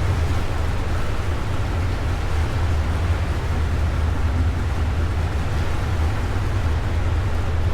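Small boat's engine running steadily underway, a constant low drone, with the hiss of water and wind over it.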